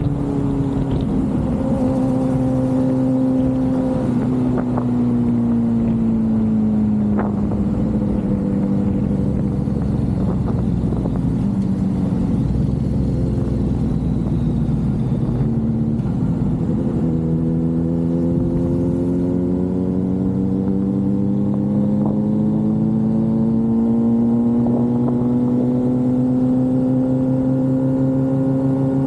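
Suzuki GSX-R750 inline-four motorcycle engine running under way. Its pitch sinks slowly as the bike eases off, changes abruptly about halfway through, then climbs steadily as it pulls again.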